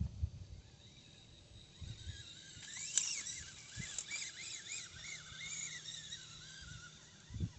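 A bird calling outdoors: a run of short, high chirps that rise and fall, starting about two and a half seconds in and fading before the end. A few low thuds come at the start and near the end.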